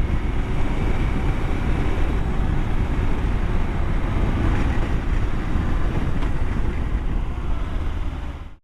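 Motorcycle riding at speed: steady wind rush buffeting the microphone over engine and road noise. It cuts off suddenly near the end.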